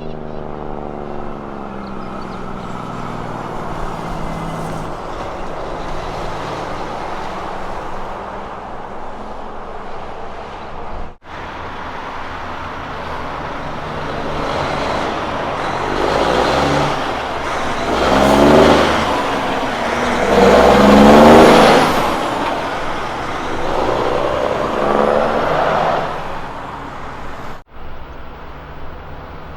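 Heavy Kenworth trucks driving past, in separate clips cut together. Early on an engine note falls in pitch. After the first cut a truck's engine grows louder and passes close by, its pitch sliding up and down several times, loudest a little past two-thirds of the way through.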